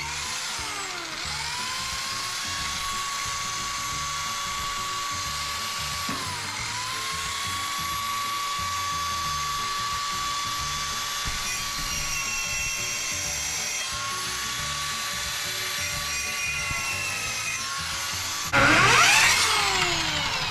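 Electric power drill running with a steady whine whose pitch dips and recovers a few times as it bites into wood. A much louder, harsher burst of tool noise comes near the end.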